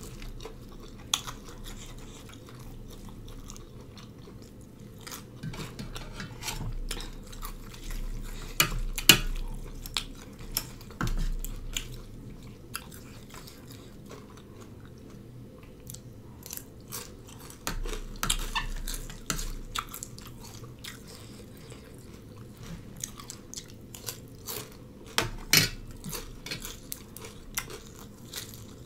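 Close-up chewing and crunching of mouthfuls of spicy noodle salad and fresh greens, in irregular bursts, with now and then a spoon clinking against the plate.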